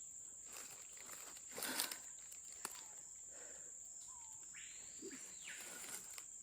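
Rainforest ambience: a steady, high-pitched insect drone, with a few rustles and soft knocks, the loudest about two seconds in.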